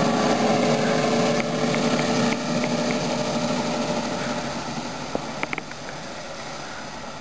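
Ride-on backyard miniature train running and fading gradually as it moves away, with a few sharp clicks about five and a half seconds in.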